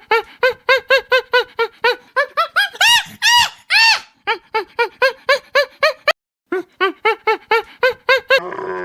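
An animal's rapid series of short pitched calls, each rising and falling, about five a second. Two longer, higher calls come near the middle, and there is a brief break about six seconds in.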